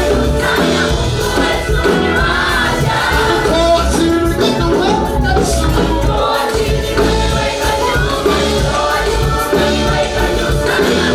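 Gospel praise music: voices singing together over a band with bass and drums, at a steady loud level.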